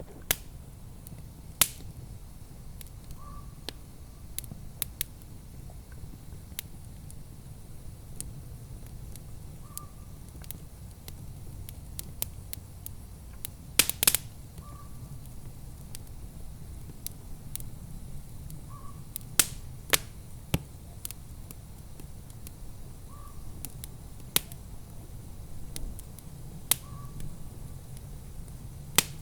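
Wood fire in a fireplace crackling: sharp, irregular pops and snaps, the loudest cluster about halfway through, over a low steady rumble.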